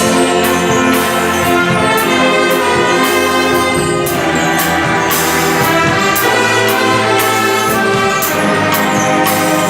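A brass band with drums playing a popular song, keeping a steady beat of about two strikes a second.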